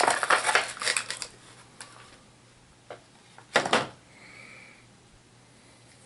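Plastic miniature figures and their booster packaging being handled, giving a flurry of sharp clicks and clatter for about the first second and another short burst of clicks a little past halfway.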